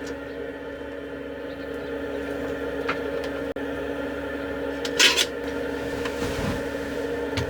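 A steady machine hum with several fixed pitches, broken by a faint click, a louder short knock about five seconds in, and a softer knock shortly after.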